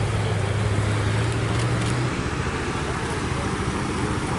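Vehicle engines running in a parade of jeeps and motorcycles, with a steady engine hum that drops away about halfway through, over continuous road and crowd noise.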